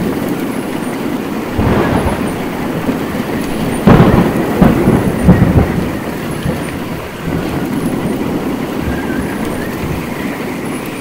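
Heavy thunderstorm rain and wind beating down steadily, with gusty surges, loudest in a cluster of rough blasts about four to five and a half seconds in.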